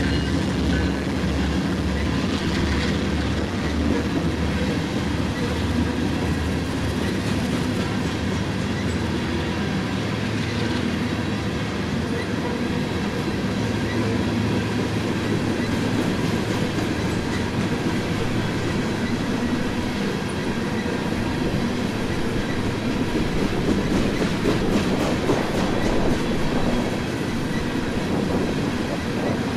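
Norfolk Southern freight train passing, its railcars' wheels rolling and clattering steadily over the rails.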